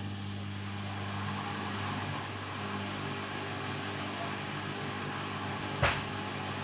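LG washing machine running with a steady electric hum, with one sharp click near the end.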